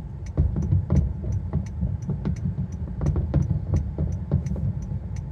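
Aerial fireworks shells bursting in a rapid, irregular barrage: sharp bangs about three or four times a second over a continuous low rumble of distant explosions.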